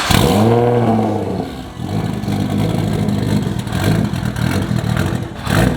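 Nissan GT-R R35's twin-turbo V6 starting up on a freshly fitted speed density setup: it flares up and falls back within the first second, then idles roughly and unevenly, with a sharp crack near the end as it falters. The rough idle is from the tune not being mapped for the new sensor type, so the engine won't keep running.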